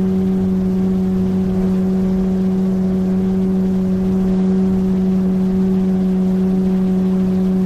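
A 9.8 hp outboard motor on an inflatable boat, running steadily at a constant pitch.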